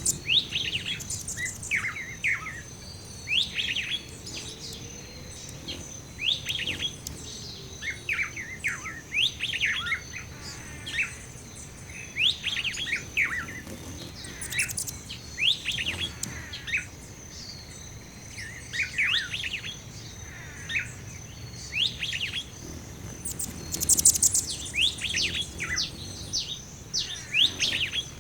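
Background bird-song ambience: several small birds chirping and twittering in quick, repeated down-slurred notes, over a thin steady high tone.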